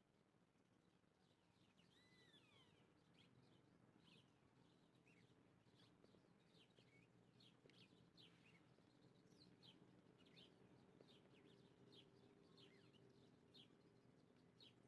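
Faint chirping of small birds: many short, down-slurred notes, several a second, over a low steady hum.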